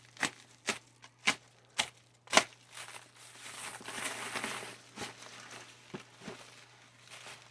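Packaging being handled and unwrapped: a run of sharp crinkles and snaps, then a longer stretch of rustling and tearing about halfway through.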